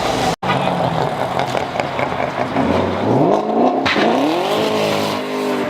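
Car engine running, then revved twice, its pitch climbing steadily each time, around the middle and again near the end.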